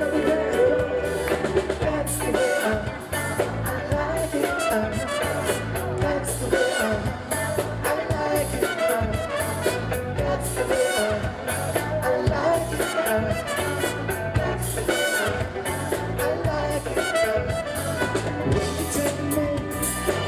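Live band playing a disco song, with a steady drum beat and singing.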